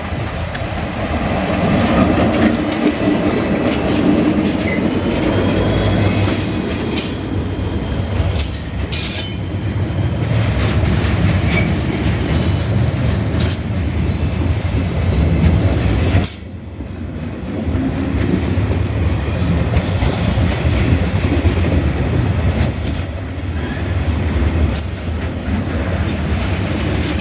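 A loud, continuous rumble with high squealing glides and sharp clicks, dropping briefly about sixteen seconds in.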